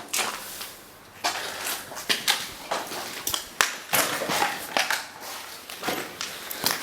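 Footsteps crunching underfoot, an irregular run of steps with a few sharper clicks among them.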